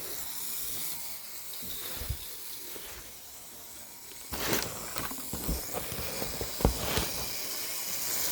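HO scale model train running on its track: a steady hiss with a few scattered light clicks and knocks in the second half.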